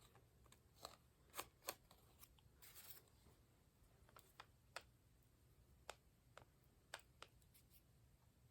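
Faint clicks and taps of paper and craft tools being handled on a tabletop, with a short paper rustle about three seconds in.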